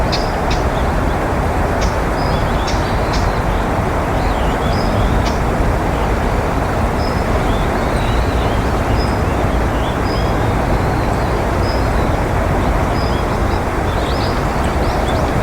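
Small birds chirping over a loud, steady rushing background noise. The chirps are short high notes, some in quick runs, others repeated about once a second.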